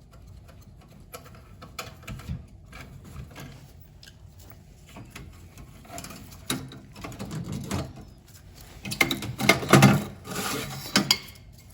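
Irregular metallic clicks, rattles and scraping from hand work on a gas boiler's burner parts and tools, sparse at first and busiest and loudest about nine to eleven seconds in.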